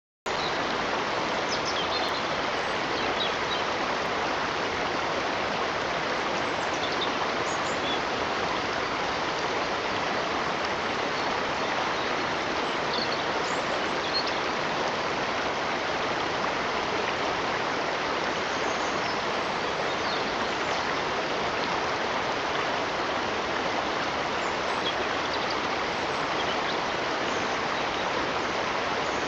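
Steady, even rushing of a flowing stream, with faint short high chirps now and then.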